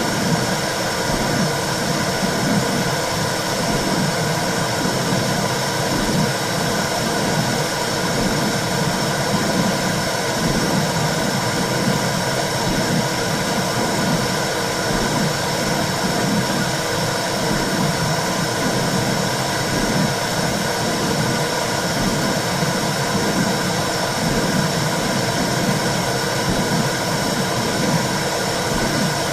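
Womb sound for soothing a baby: a steady low rumbling whoosh with a fluttering undertone, unchanging throughout.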